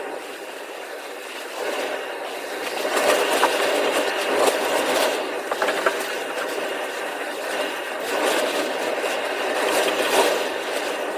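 Storm wind gusting, a steady rushing noise that swells about three seconds in and again near the end.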